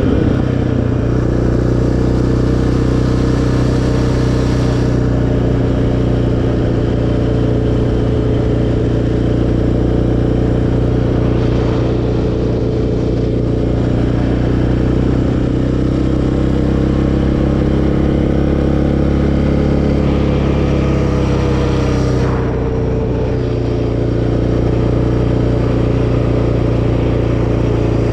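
Single-cylinder four-stroke quad engine running on the trail at a fairly steady speed, its pitch rising briefly a little after three-quarters of the way through.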